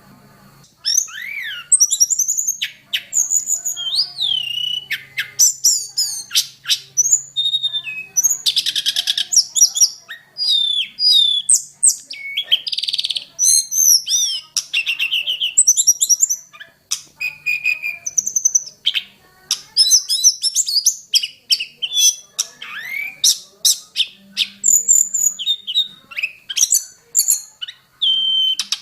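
A tledekan gunung singing a rapid, varied song of whistles, trills and notes that slide up and down, starting about a second in and running on almost without pause.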